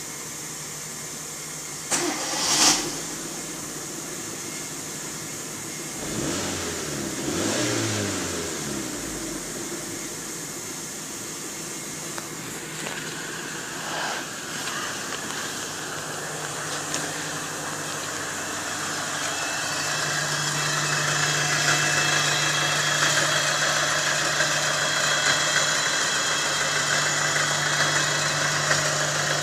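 Hyundai Accent 1.3 L G4EA four-cylinder petrol engine running, with a sharp knock about two seconds in and a brief rev that rises and falls a few seconds later. It then settles into a steady idle that grows louder toward the end.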